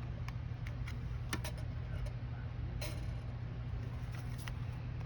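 Scattered light clicks and taps of small craft supplies being handled on a worktable, the two sharpest about a second and a half and nearly three seconds in, over a steady low hum.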